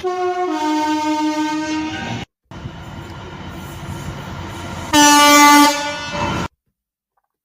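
Train horns: a two-tone horn sounds for about two seconds, stepping from a higher note to a lower one. After a brief break comes the rumble of a moving train, then a louder single-note horn blast about five seconds in lasting under a second, before the sound stops.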